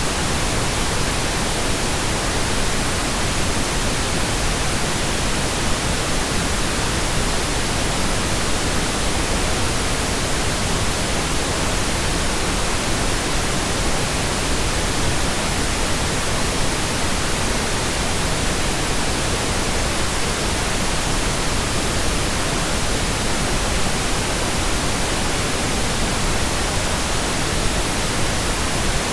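Steady, unchanging pink noise generated in Audacity: an even hiss across all pitches, weighted toward the low end.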